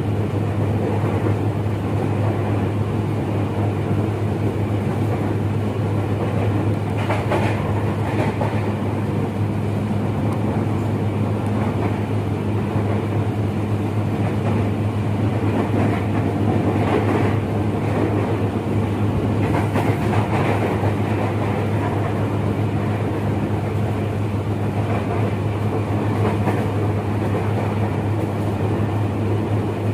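KRL commuter electric train running at speed, heard from inside the carriage: a steady low hum with even running noise and a few faint knocks of the wheels over the rails.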